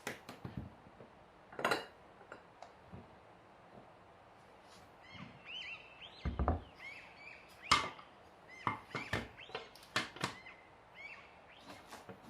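Irregular knocks and clatter of kitchen work, with one deeper thud about six seconds in. From about five seconds in, small birds chirp repeatedly in the background.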